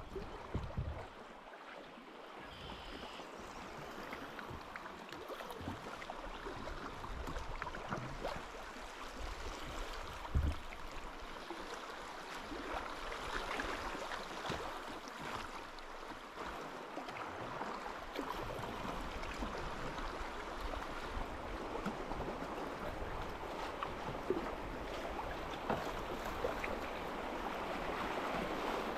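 River water running, a steady rush that slowly gets louder toward the end. A single low thump about ten seconds in.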